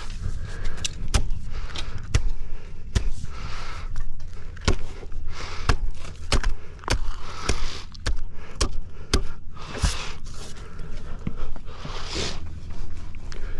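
Irregular sharp knocks and clanks with swells of scraping noise over a steady low rumble: work sounds on the site.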